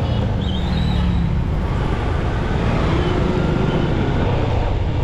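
Motorcycle riding through city traffic: a steady low rumble of engine and wind.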